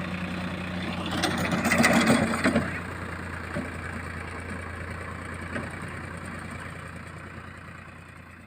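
Diesel engine idling with a steady low hum, a louder rough stretch about a second in, then fading away toward the end.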